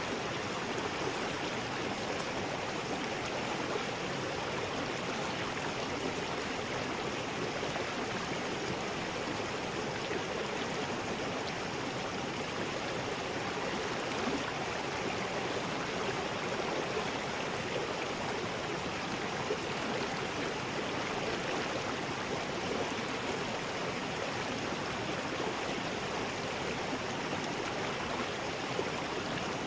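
River rapids: water rushing steadily over rocks, an even, unbroken rush.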